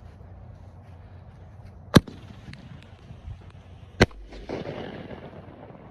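Consumer fireworks going off: two sharp, loud bangs about two seconds apart, the second followed by about a second of crackling hiss. Steady freeway traffic rumble underneath.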